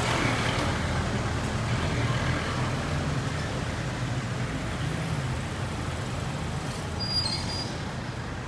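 Road traffic: a motor vehicle's engine running with a steady low hum that slowly fades, and a brief high squeal about seven seconds in.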